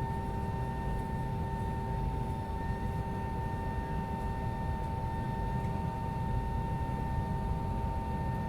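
Cabin noise of an Airbus A320 taxiing after landing, its IAE V2527 engines at idle: a steady low rumble with a constant whine held on a few fixed pitches.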